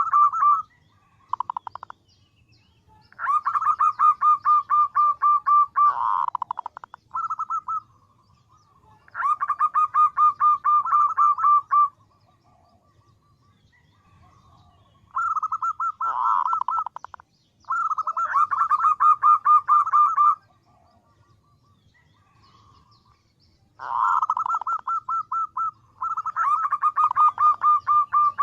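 Female zebra dove (perkutut) calling to attract males: rapid trains of short, staccato cooing notes, each run lasting two to three seconds and repeated about half a dozen times with brief pauses between.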